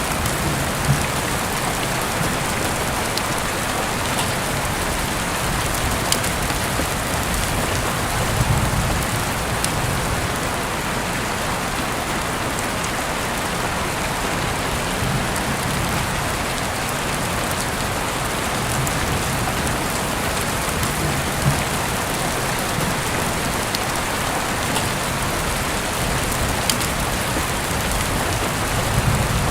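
Steady, heavy rain falling on a surface, a dense even hiss with a few sharp isolated clicks scattered through it.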